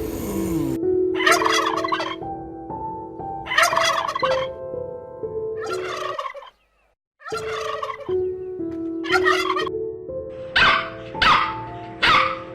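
Turkey gobbling repeatedly, short rattling calls a couple of seconds apart that come faster near the end, over steady background music. The sound drops out for about a second a little after six seconds in.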